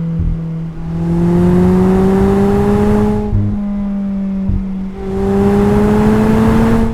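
Mazda MX-5's inline four-cylinder engine and exhaust under acceleration, heard twice: the engine note surges loud and climbs slowly in pitch for about two seconds from about a second in, eases off, then pulls hard again about five seconds in.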